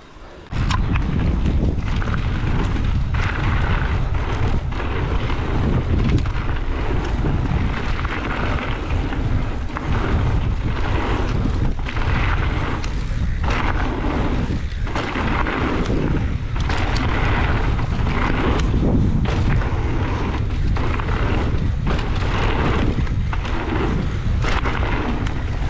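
Heavy wind buffeting on the camera microphone during a fast mountain-bike descent, a deep rumble with a rushing hiss. It starts suddenly about half a second in.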